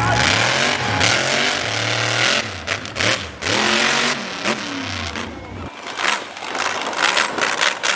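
Monster truck engine revving up and down repeatedly, with a loud rushing noise over it; the low engine note drops out about six seconds in.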